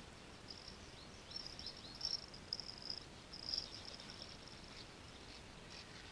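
A small songbird singing: a run of high, thin notes with a few quick downward-curving chirps in the first few seconds, over faint steady outdoor background noise.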